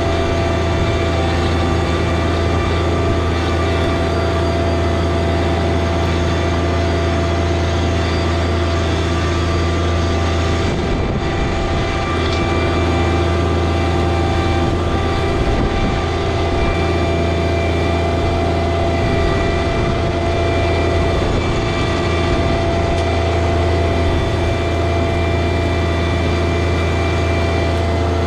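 John Deere 1023e compact tractor's diesel engine running steadily at raised throttle, with a strong low drone and a steady whine above it. The low drone dips and wavers for a few seconds about eleven seconds in, then settles back.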